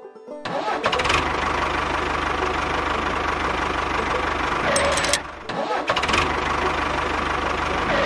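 A small engine or motor runs steadily and loudly. It cuts out briefly a little after five seconds in, then runs again.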